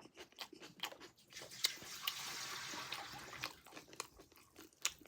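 Close-up mouth sounds of someone eating pork: crunching and chewing with wet clicks, and a steady hiss for about two seconds in the middle.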